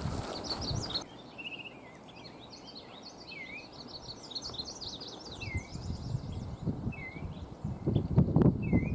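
Several songbirds chirping and trilling, with one short down-and-up swooping call repeating every second or two. A low rumble builds up over the last few seconds.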